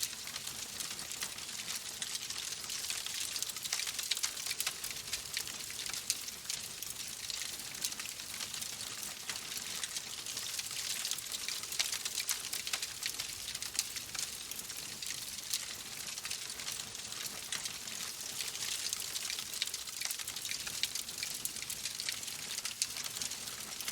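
Wood fire crackling in a fireplace: a steady hiss with many small snaps and pops scattered throughout.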